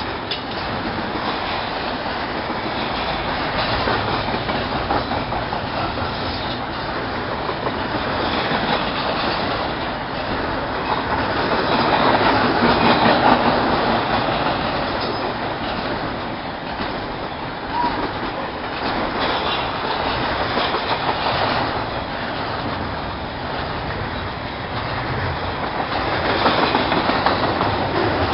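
Freight train cars rolling past, steady rumble and clatter of wheels over rail joints, with occasional faint wheel squeal.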